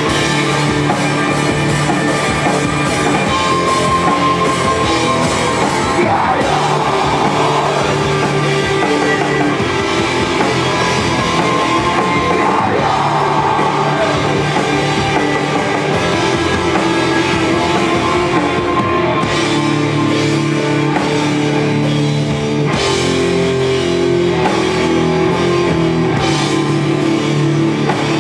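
Live rock band playing a heavy song on drum kit and guitars, loud and steady throughout.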